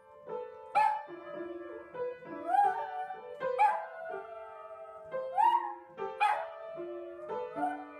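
A dog barking in short yelps, about six times, each call rising in pitch, over background music with held keyboard notes.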